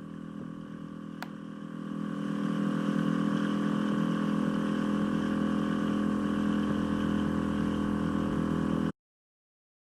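An engine running steadily, louder from about two seconds in, then cutting off suddenly near the end.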